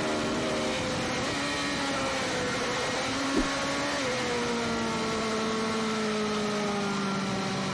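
Onboard sound of a sport bike engine, which is probably a 600 by its 14,000 RPM, running hard over wind and road rush. Its note steps down a few times, then jumps up about four seconds in and falls slowly as the revs drop. There is a short knock just before the jump.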